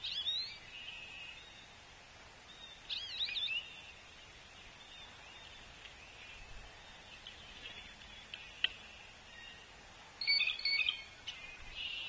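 Songbirds calling around the feeders: a short looping whistled phrase at the start, another about three seconds in, and a denser cluster of ringing call notes near the end, over a faint outdoor background. A single sharp tap sounds about two-thirds of the way through.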